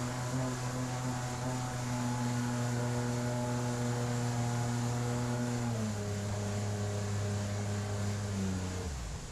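Outboard jet motor of an inflatable river jet boat running steadily under way. Its pitch drops a step about six seconds in as the throttle eases, then falls away sharply near the end.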